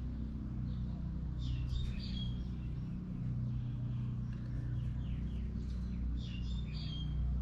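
Small birds chirping in two short bouts over a steady low hum.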